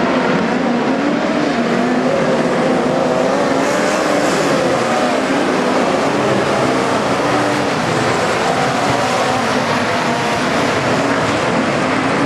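Several midget race car engines running hard together, their overlapping pitches rising and falling as the cars circle the track.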